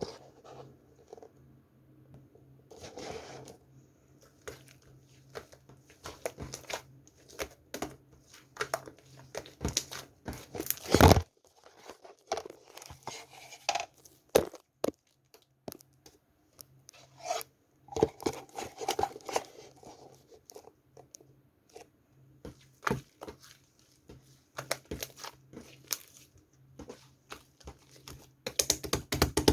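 Hands working a slime, making irregular sharp clicks and crackling pops, one louder pop about eleven seconds in. A faint steady low hum runs underneath.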